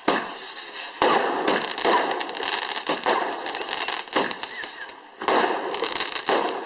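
Fireworks going off: a series of sharp bangs, about one a second, with crackling between them.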